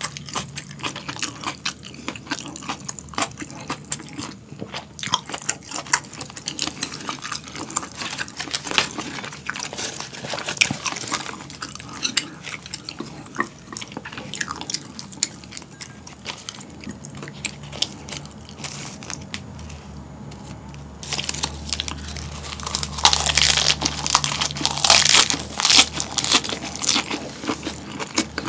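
Close-miked ASMR eating: chewing with wet mouth clicks and crunches, growing louder and denser about three-quarters of the way through as a fresh lettuce wrap with boiled pork and kimchi is chewed.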